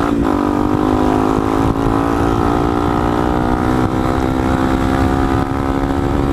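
Motorcycle engine running steadily while riding, the revs dipping briefly just after the start and then holding even, with wind rumble on the microphone.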